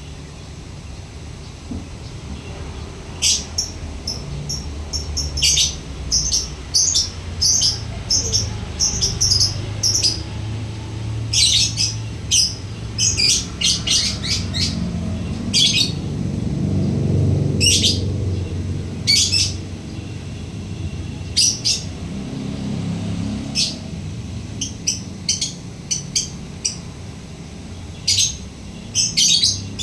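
Lovebird calling: short, sharp, high-pitched chirps, singly and in quick runs, starting about three seconds in. This is the chattering call bird-keepers call ngekek, made over and over.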